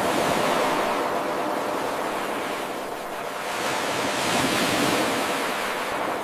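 Ocean surf, waves washing in on a shore in a looped recording: the wash is loud at the start, eases about halfway through, then builds again and falls away near the end.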